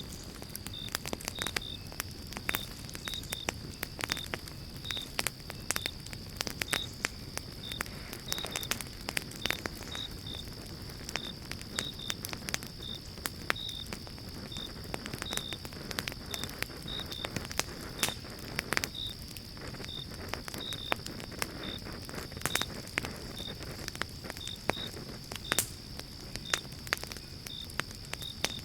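Pine logs burning in a campfire, crackling with frequent sharp pops. A steady high-pitched tone and small regular chirps, about two a second, run underneath.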